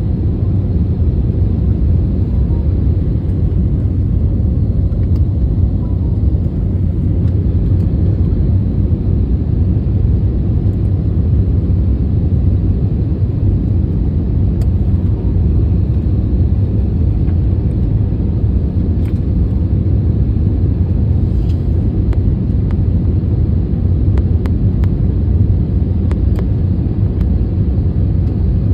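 Steady low rumble of a passenger airliner's engines and airflow, heard inside the cabin during the approach to landing.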